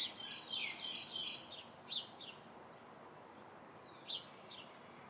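Small birds chirping: a quick run of short high notes in the first second and a half, then a few single chirps, over faint outdoor background noise.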